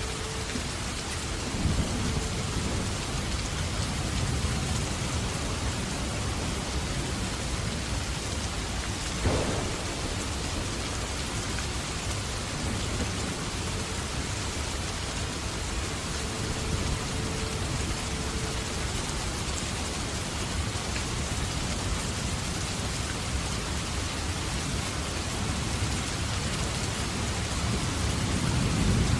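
Steady rain falling, with low rumbles swelling up about two seconds in and again near the end, and one sharp pop about nine seconds in.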